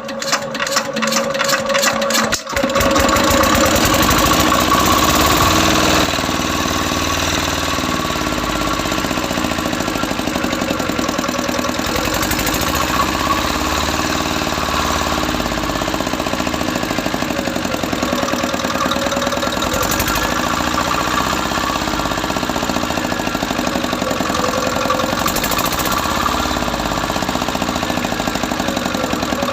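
Small single-cylinder engine starting: its pulses speed up over the first couple of seconds, then it runs steadily at an even, rapid beat.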